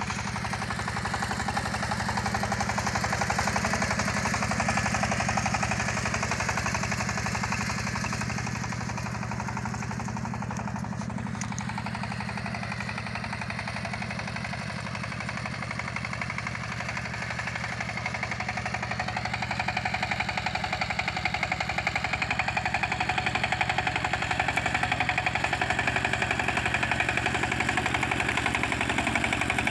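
Walking tractor's engine running steadily with a fast, even knock of firing pulses, getting a little louder from about twenty seconds in.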